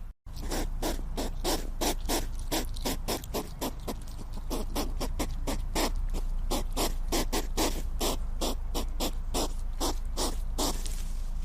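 Hedgehog making a rapid run of short puffs of breath, about four a second, after a brief break in the sound just at the start, over a steady low hum.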